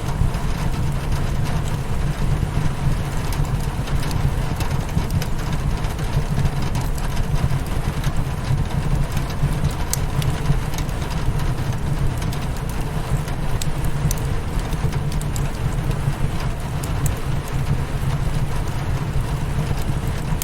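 Rain pattering steadily on a windowpane over a constant low rumble, with the sharp crackles and pops of a wood fire in a fireplace scattered through it.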